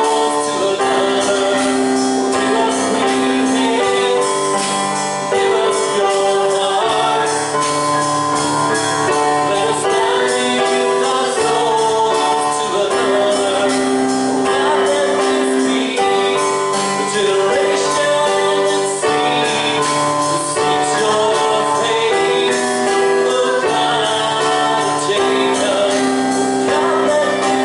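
Live church worship music: singers with keyboard accompaniment and light percussion, playing slow, sustained chords.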